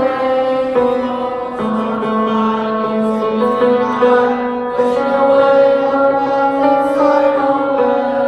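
A choir singing a slow passage in long held notes, changing pitch every second or so.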